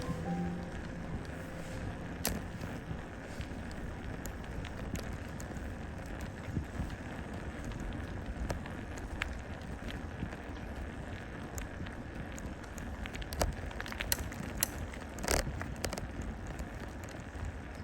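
Steady wind and road noise while riding a folding bicycle, with scattered light clicks and rattles and one louder knock about fifteen seconds in.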